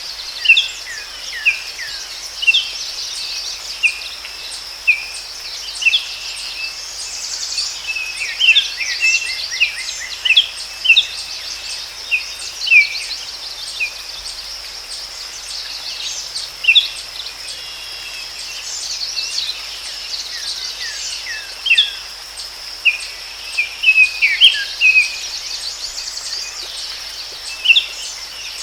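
Forest ambience of many birds chirping in short, quick falling notes, some in rapid clusters, over a steady high insect drone.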